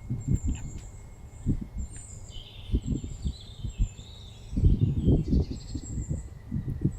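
Small birds chirping and singing, with irregular low rumbles of wind buffeting the microphone that grow heavier for a second or so past the middle.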